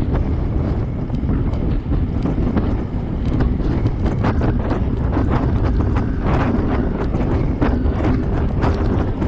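Wind buffeting the microphone of a camera on a moving bicycle, a heavy steady rumble, with irregular clicking and rattling from the bike over the road surface that gets busier a few seconds in.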